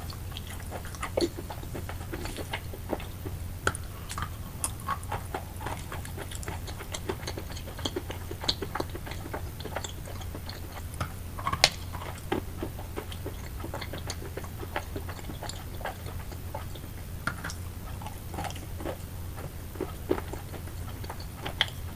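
Close-up chewing of wet chalk: irregular soft crackles and clicks, with a steady low hum underneath.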